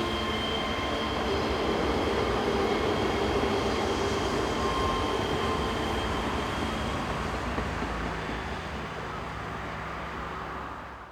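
Electric train running on the line, a steady rail rumble with faint high wheel-squeal tones, growing gradually quieter over the second half.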